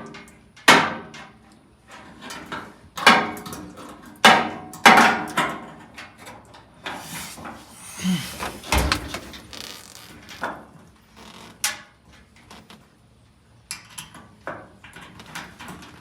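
Clanks and knocks of metal parts being handled and tried in place while fitting a fuel sending unit and gasket to a gas tank. Several sharp clanks come in the first five seconds, then a low thud about nine seconds in, and a few lighter knocks near the end.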